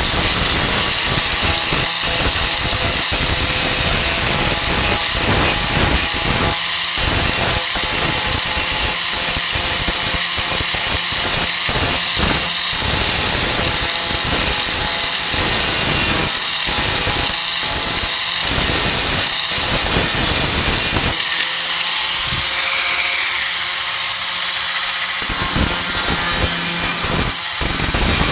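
4-1/2 in. electric angle grinder with a Type 27 grinding disc grinding down flux-core welds on a steel tailgate patch: a steady high whine over a continuous grinding rasp. The grinding eases for a few seconds in the last third, then bites again.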